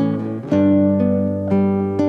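Background music of plucked acoustic guitar, with new notes picked about every half second.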